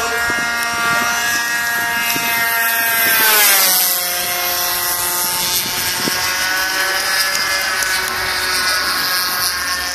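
Radio-controlled warbird model's DLE 20cc single-cylinder two-stroke petrol engine at full throttle in a low fly-past. It is loudest about three and a half seconds in, where its pitch drops as the plane passes, and then drones on lower as it flies away.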